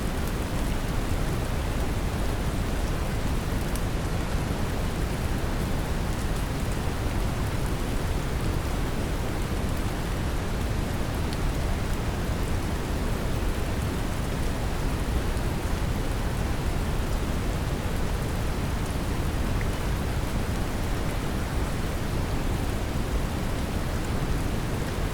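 Steady brown noise, deep and strongest in the low end, mixed with the even hiss of rain falling, with faint scattered drop ticks.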